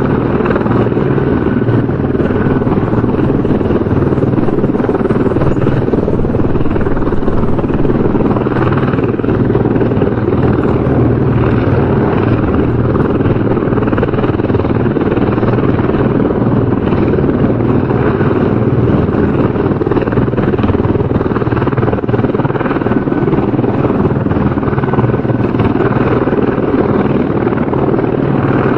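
Helicopter rotor and engine running steadily, loud and unchanging.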